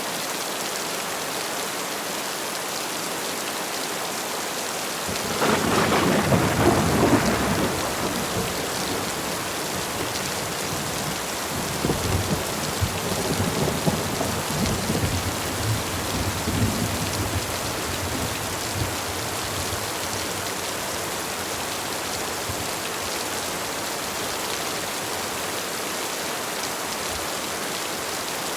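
Heavy rain falling steadily, with a crack of thunder about five seconds in that rumbles for a few seconds, then a lower rolling rumble of thunder a few seconds later that fades out.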